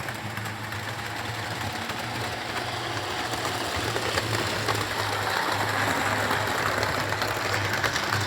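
Model railway train, a model Class 67 locomotive with coaches, running along the track: a steady electric motor hum with wheels rattling on the rails, getting louder towards the second half as it nears.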